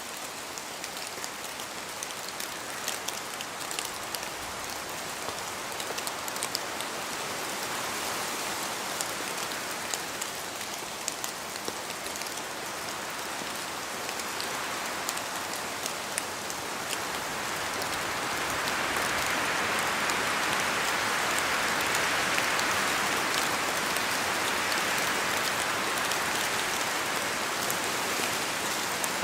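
Steady rain falling in a forest, with scattered sharp drops pattering down from the trees. The rush grows louder from about two-thirds of the way through.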